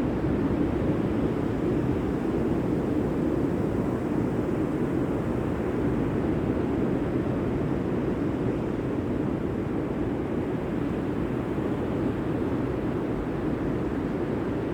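Steady, even rushing noise, strongest low down, with no rise and fall or distinct events.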